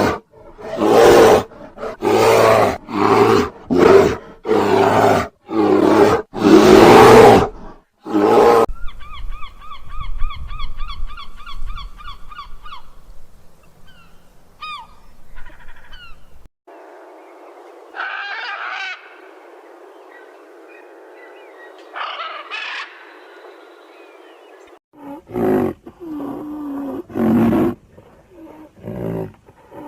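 A sequence of animal calls: a run of about ten loud roars, then a bird's quick repeated calls and scattered chirps, then other bird calls, and loud roars again near the end.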